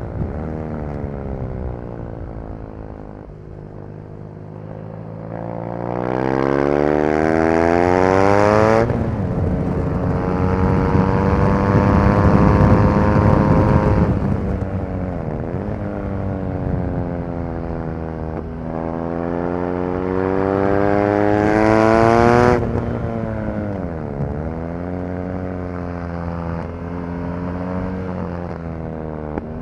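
BMW R NineT Racer's 1170 cc air/oil-cooled boxer twin on the move at full track pace: the revs fall, then climb hard for several seconds and drop suddenly at a gear change about nine seconds in, hold high, ease off with downshifts, then climb again before another sharp drop near twenty-two seconds. The engine sound is recorded without wind noise.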